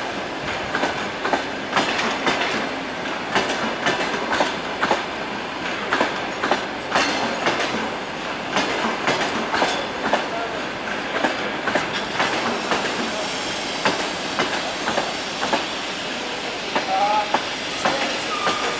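Passenger train coaches rolling past on their arrival at the station, the wheels clicking over the rail joints in quick clusters that thin out as the train slows. A few short high squeals come near the end.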